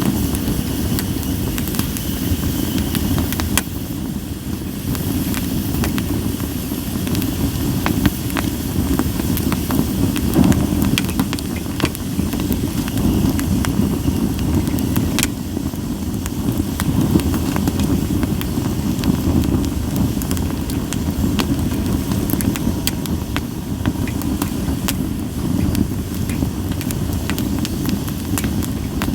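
Sawtooth oak firewood burning in an open fire pit: a steady low rumble of flames with scattered sharp crackles and pops throughout.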